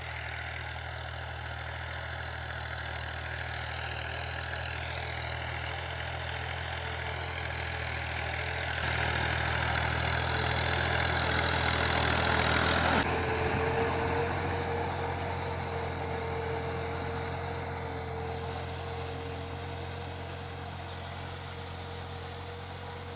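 Farm tractor engine running steadily, louder for a few seconds in the middle, with a steady whine in the second half.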